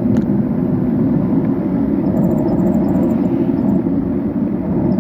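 Steady road and wind noise from a bike in motion, picked up by a camera riding along, with one short click just after the start.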